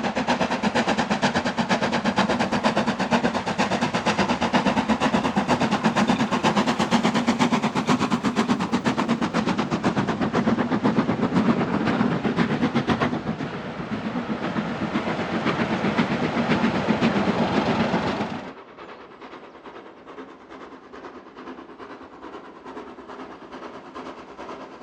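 Steam locomotive working hard, its exhaust beating rapidly and loudly. About three-quarters of the way through the sound drops suddenly to a much quieter sound of the train running on.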